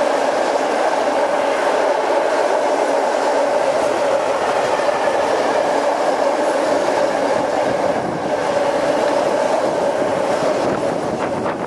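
Freight train of open-top coal wagons rolling past close by: a steady, loud rumble of steel wheels on rail with a held droning note, and a few wheel clacks near the end.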